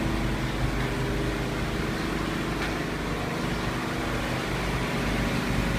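A steady mechanical hum and low rumble, like a running motor or engine, with no clear events.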